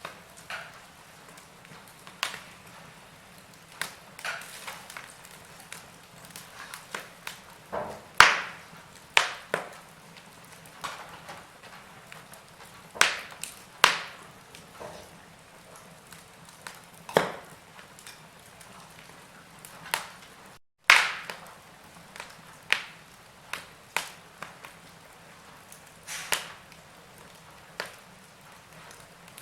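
Wood fire in a fireplace crackling, with sharp irregular pops every second or so over a soft steady hiss. The sound cuts out for a split second about two-thirds of the way through.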